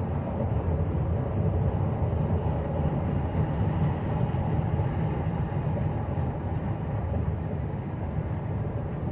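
Steady road and engine noise inside a moving pickup truck's cabin at highway speed: a low, even rumble of tyres and engine with a light wind hiss.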